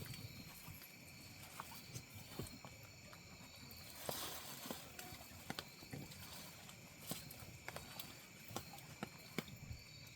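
Faint steady chirring of night insects, with scattered light clicks and taps and a brief soft hiss about four seconds in.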